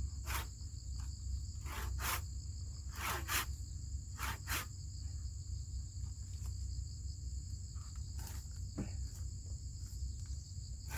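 Insects chirring steadily in two unbroken high tones, over a low rumble, with scattered sharp knocks and cracks, several clustered in the first half and a couple more near the end.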